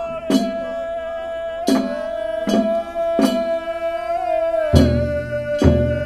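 A Japanese boat song (funauta) performed with a singer holding one long note, accompanied by sharp plucked-string strokes at an unhurried, uneven pace. About three-quarters of the way in the held note drops slightly and a deeper sound joins it.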